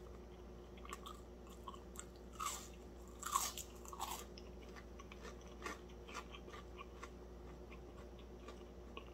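Close-up chewing of crispy fried fish, with a few crisp crunches of the fried crust about two to four seconds in and softer chewing clicks in between.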